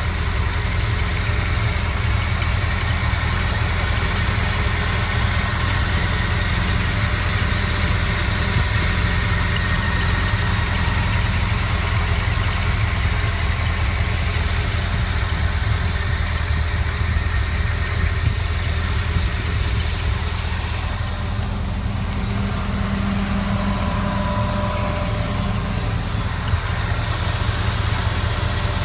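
1964 Corvette's small-block V8 idling steadily.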